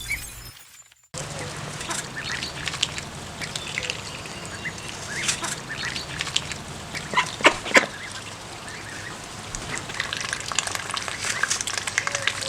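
After a brief silence, ducks and ducklings call steadily: many short high peeps, with a few loud quacks, two close together about seven seconds in and more near the end.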